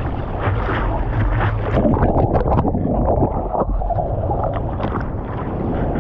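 Ocean surf: waves breaking and water churning close around the microphone, a loud continuous rush with irregular splashes.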